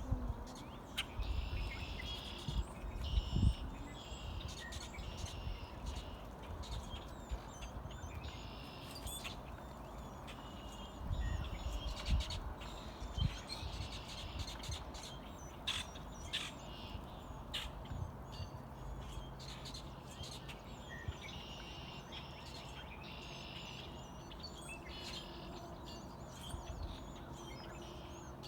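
Birds calling, with bursts of high chirping about a second long repeated every couple of seconds, over a low rumble and scattered clicks.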